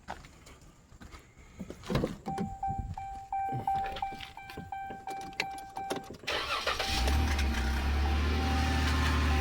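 Knocks and clicks, then a repeating electronic chime from the cab of a 2014 Ram 1500. The 3.6-litre Pentastar V6 then cranks about six seconds in, catches and settles into a steady idle: its first start after an oil change.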